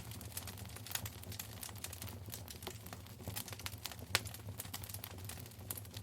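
Wood fire in a fireplace crackling: irregular sharp pops and snaps, with a louder pop about four seconds in, over a steady low hum.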